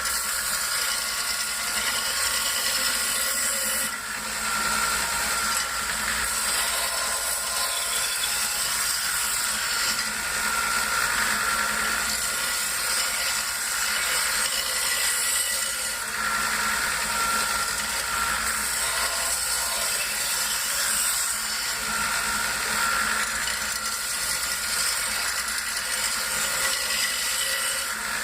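Stinging Edge powered belt sharpener running steadily on a 600-grit belt, with a steady high whine, as a clamped knife blade is passed across the belt on alternating sides to smooth out the burr.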